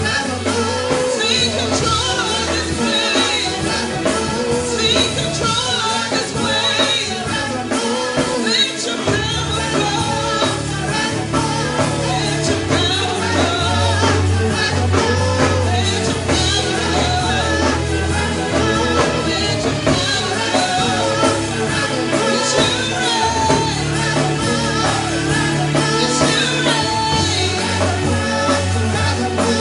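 Live worship music: singing over a band with bass and drums.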